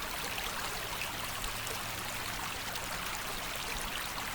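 Creek water running, a steady, even rush.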